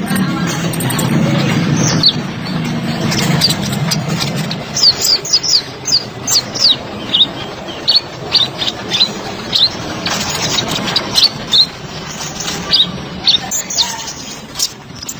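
Kolibri ninja sunbird singing: a rapid, dense run of sharp, high, down-slurred chirps that begins about five seconds in and carries on, over a low hum in the first few seconds.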